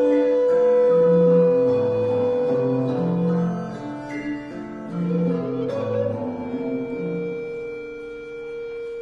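Early-music ensemble of recorder, viola da gamba and theorbo playing: long held notes sound above a low bass figure that repeats about every second and a half. Past the middle, the bass drops away and a single held note carries on.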